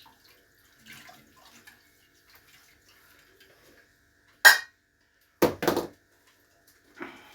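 Hard objects clattering as they are handled: one sharp clank about four and a half seconds in, two heavier knocks close together a second later, and a lighter one near the end, over faint rustling.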